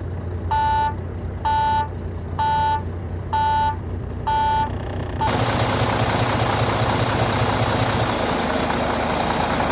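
Volvo VNL760 semi truck's diesel engine idling just after a cold start, while a cab warning beeper sounds about once a second, five times, then stops. About five seconds in, a loud steady hiss starts over the idle and continues.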